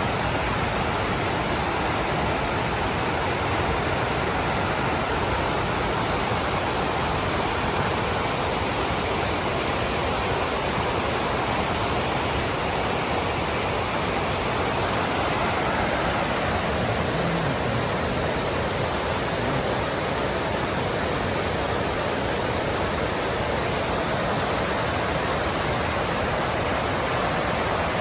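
Large waterfall rushing: a steady roar of falling and churning water.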